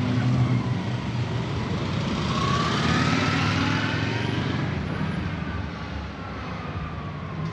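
A motor vehicle engine running with a steady low rumble. Its pitch rises to a peak about three seconds in and then falls away, as if it revs or passes by.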